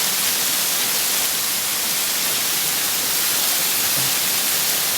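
Waterfall rushing over rock: a steady hiss of falling water.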